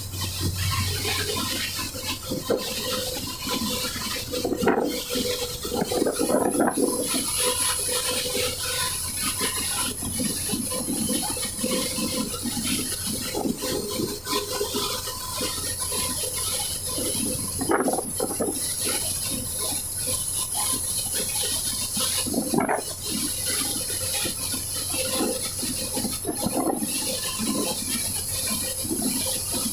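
Rain and gusty wind: a steady rushing hiss with irregular louder surges, the strongest about 5, 7, 18 and 23 seconds in.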